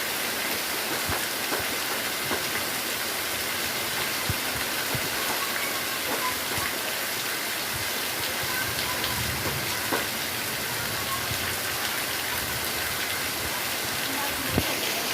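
Heavy rain falling steadily: a dense, even hiss with a few sharper drop impacts, the loudest one near the end.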